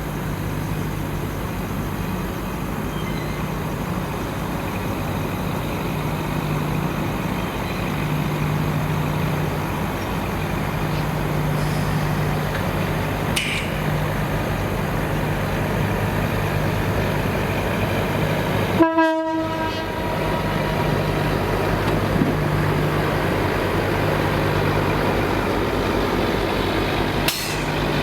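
Freight train rolling past, a steady rumble with a low, even hum. About two-thirds of the way through, the sound drops out suddenly and briefly with a short tone.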